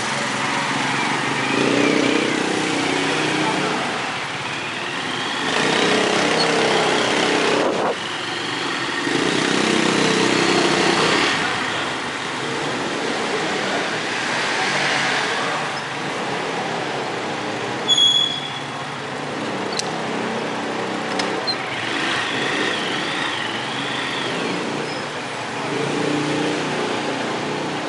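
Motorcycle on the move: a steady rush of wind and road noise, with the engine note swelling and easing every few seconds.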